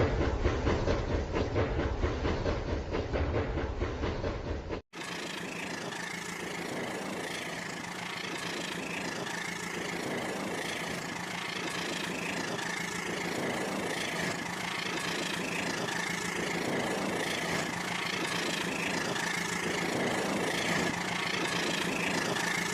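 Battery-powered toy train running on its plastic track: a dense clatter of motor and wheels. About five seconds in the sound cuts abruptly to a steadier whir with a soft pulse repeating a little more than once a second.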